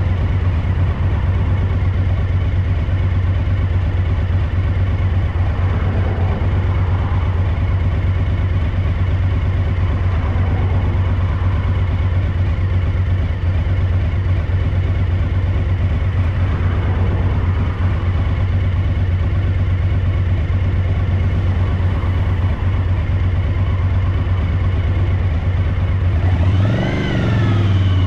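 Suzuki DL1000 V-Strom's V-twin engine running steadily at low revs, with a brief throttle blip near the end where the pitch rises and falls back. The engine has a misfire on the rear cylinder, according to the owner.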